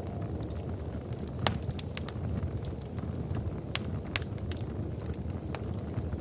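Wood fire crackling in a fireplace: irregular sharp pops and snaps over a steady low rumble, with the loudest pop about one and a half seconds in.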